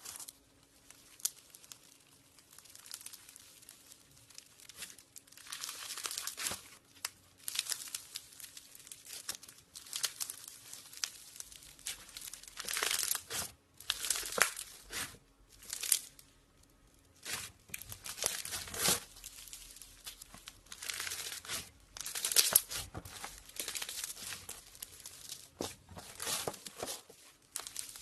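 Slime being stretched, squeezed and pulled apart by hand, giving irregular runs of crackly, crinkling pops and tearing sounds.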